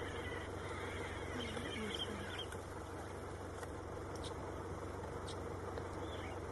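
Vehicle engines idling: a steady low hum, with a few faint ticks.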